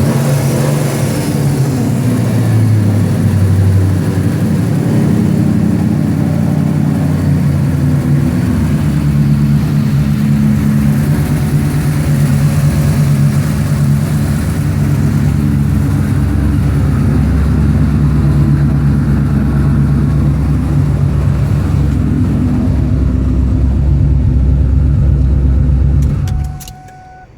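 Built, twin-turbocharged 4.6-litre DOHC V8 of a 2003 Mustang SVT Cobra idling steadily, with a brief rise and fall in revs about two to four seconds in. The engine sound drops away abruptly near the end.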